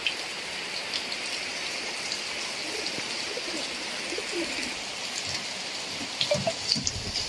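Steady heavy rain falling, with individual drops pattering. A bird calls faintly in the middle, and a few low thumps come near the end.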